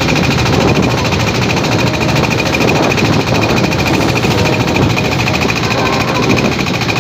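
A boat engine running steadily with a rapid, even chugging rattle.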